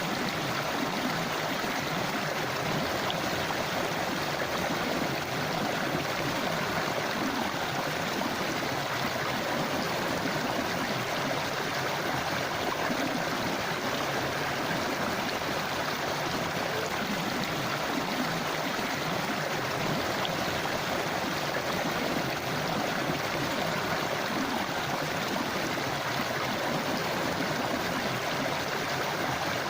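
Forest river flowing over stones, a steady rushing and babbling of water.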